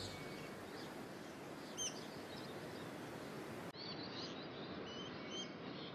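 Faint tropical forest ambience: a steady hiss of background noise with a few short, high bird chirps scattered through it. The background changes abruptly a little under four seconds in.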